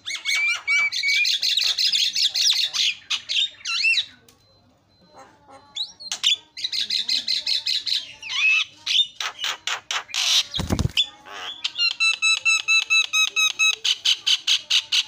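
Javan myna singing vigorously: fast runs of harsh chattering and squawking notes mixed with whistled tones, in two long bouts with a short pause between them. A short harsh burst about ten and a half seconds in.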